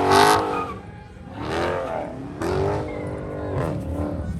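A car engine revving hard several times, its pitch climbing and dropping back with each rev.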